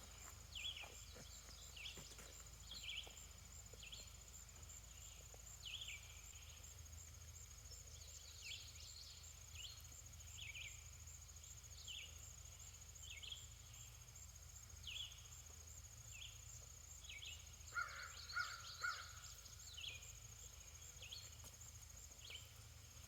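Quiet summer outdoor ambience: a steady high insect trill, with short bird chirps about once a second and a brief louder run of bird notes about 18 seconds in.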